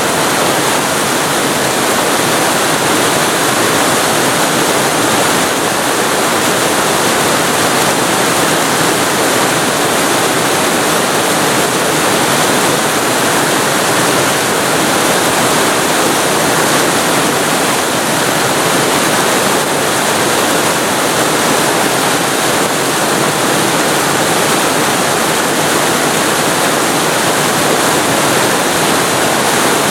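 Waterfall recorded very close to the falling water: a loud, steady rush of water that does not change.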